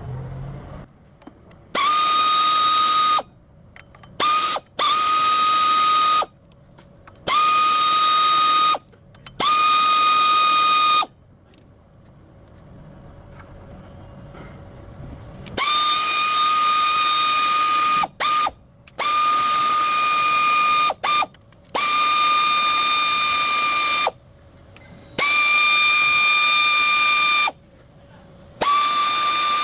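Power wrench running in about ten short bursts of one to two seconds each, with a steady high whine, driving bolts during a water pump replacement.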